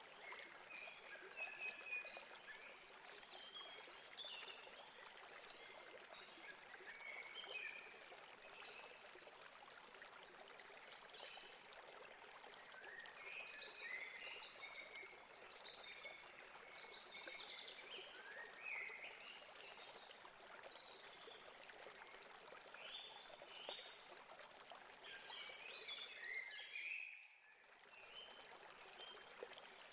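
River water flowing steadily, with many small birds chirping throughout. The sound fades out briefly near the end.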